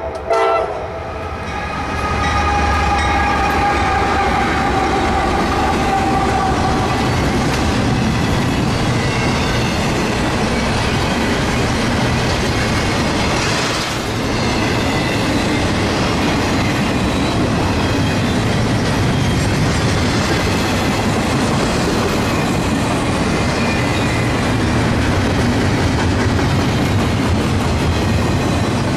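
Norfolk Southern double-stack intermodal freight train passing close by. Its diesel locomotive's horn cuts off about half a second in, the locomotives go by over the next few seconds, and then the container well cars roll past with a long, steady rumble and clatter of wheels on rail.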